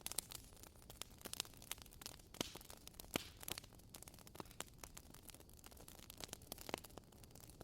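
Firewood burning in a fire, crackling faintly with irregular sharp pops and snaps over a soft hiss, a few snaps standing out louder.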